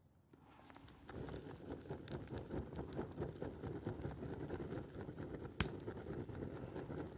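Cooking over a campfire: a dense patter of small crackles and pops sets in about a second in, with one sharp crack near the end.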